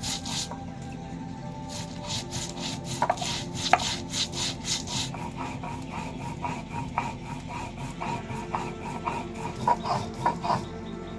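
Quick repeated scraping strokes of a kitchen utensil, several a second, over steady background music.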